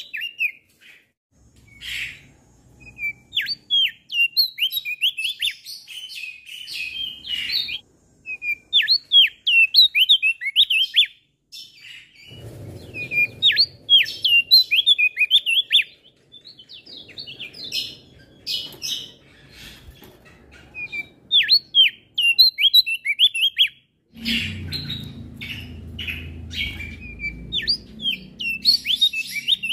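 Male Javan grey-throated white-eye (opior jambul) singing: quick runs of high chirps and short sweeping notes, broken by brief pauses. A low rumble sits underneath in places, loudest near the end.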